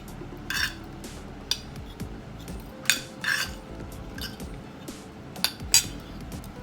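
Cutlery clinking against plates during a meal: scattered short, sharp clinks, about seven in all, the loudest nearly six seconds in.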